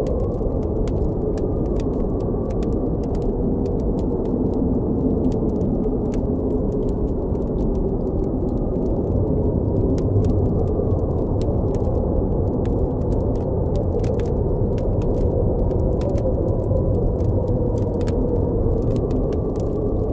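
Blizzard wind blowing in a steady low rush, with a faint whistle that rises and falls, over the scattered crackles and pops of a campfire.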